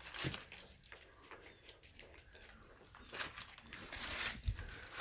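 Footsteps crunching in snow: a few separate crunches, the clearest near the start and again about three and four seconds in.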